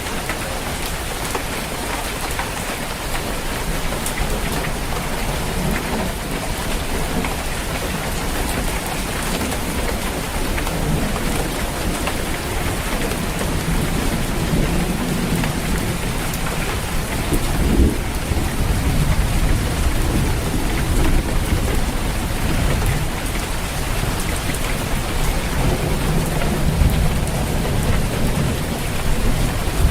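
Steady heavy rain drumming on a roof, with low rolling thunder rumbling through it, building in the second half and swelling most strongly about eighteen seconds in.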